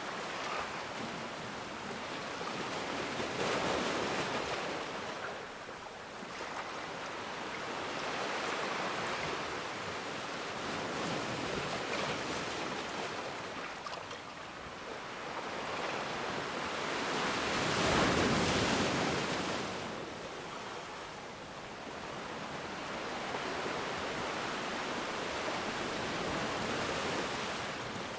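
Ocean waves breaking and washing on the shore, the surf swelling and falling every few seconds, with the biggest wave about two-thirds of the way through.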